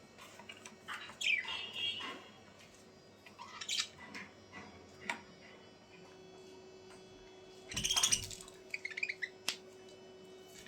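Birds chirping and squawking in short, scattered calls, with a louder burst about eight seconds in followed by a quick run of short chirps.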